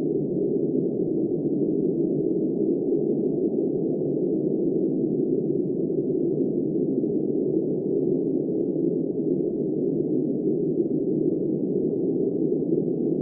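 Steady storm wind, a dull, muffled rush with nothing high-pitched in it, holding an even level without gusts or breaks.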